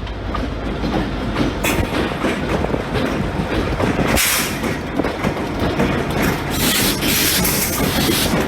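Freight cars rolling along the track, wheels clattering steadily over the rails. There are harsher high-pitched stretches about halfway through and again near the end.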